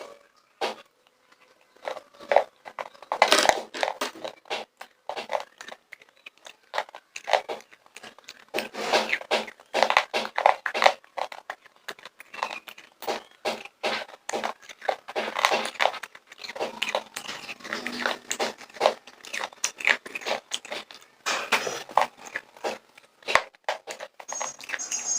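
Popcorn being crunched and chewed close to the microphone: a dense run of crisp crackles with short pauses, starting about two seconds in.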